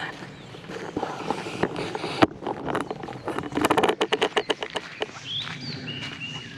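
Footsteps on a forest trail, with a sharp knock a couple of seconds in and a rapid rattling run of clicks, about ten a second, for about a second in the middle; birds chirp near the end.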